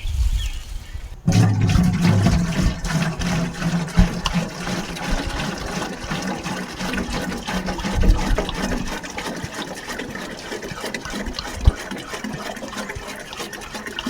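Water pouring and splashing as vegetable plants are watered, starting suddenly about a second in and running on steadily, with a lower rush that eases off toward the end.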